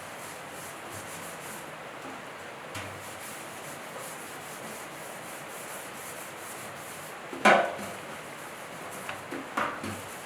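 Steady hand rubbing or scrubbing on a part, with one sharp clatter about seven and a half seconds in and a few lighter knocks near the end.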